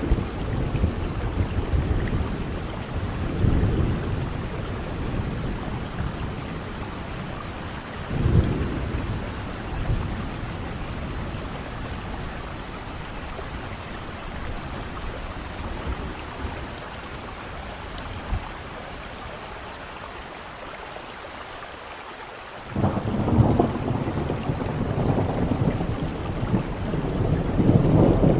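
Steady rain falling, with thunder rumbling in and out. A heavier roll of thunder breaks in suddenly about 23 seconds in and grows louder toward the end.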